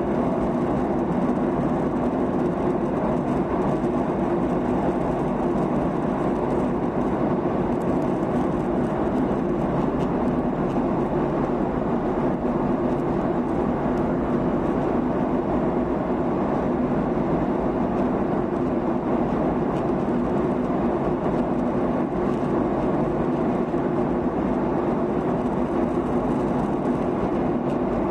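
Steady cabin noise of a Boeing 737-800 in flight: the continuous rush of engines and airflow, with a steady low hum underneath.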